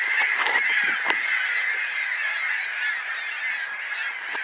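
A large flock of gulls calling all at once, a dense, steady chorus of overlapping cries.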